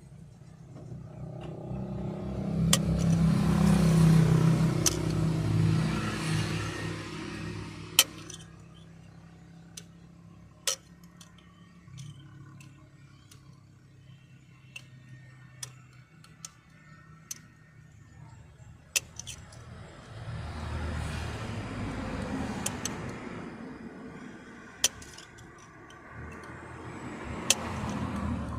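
Car engine, said to be knocking, revved up and let settle back twice: first about two seconds in and again about twenty seconds in. Scattered sharp clicks sound during the quieter stretch between.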